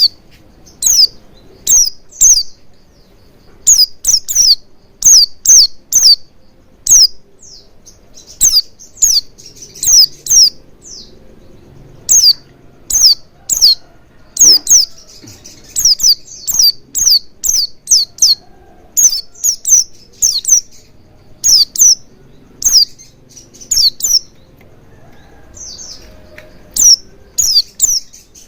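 White-eye (pleci) calling: short, sharp, high chirps that fall in pitch, in quick clusters of two to four repeated every second or so. This is a bait call used to make a kept pleci start singing and open its beak.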